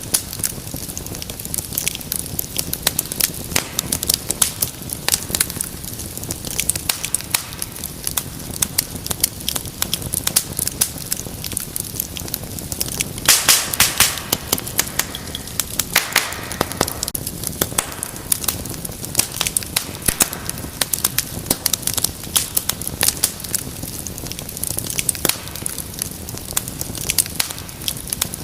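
Wood fire in a fireplace crackling steadily, many small sharp pops over a low rush of flame, with a burst of louder pops about halfway through.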